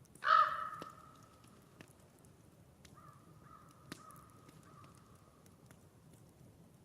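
A bird gives one loud, harsh call about a quarter second in, followed some seconds later by a fainter drawn-out call. A few faint sharp crackles from the campfire come in between.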